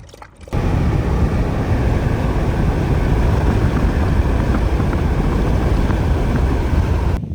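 Vehicle driving on the road: steady engine and road noise that starts abruptly about half a second in and cuts off abruptly near the end.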